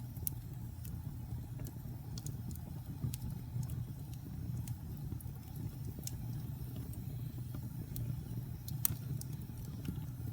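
Wood fire in a fireplace burning with a steady low rumble of flames, and logs giving off sparse, irregular crackles and pops, the sharpest one near the end.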